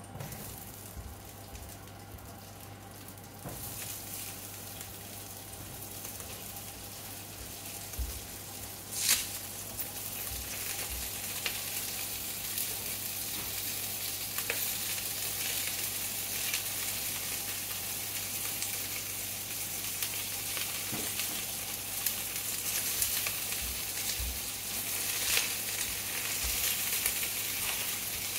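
Wiener sausage pieces and then cabbage sizzling in hot oil in a frying pan, the sizzle building from a few seconds in as more food goes into the pan, with light knocks of pieces dropping in. A single sharp clatter stands out about nine seconds in.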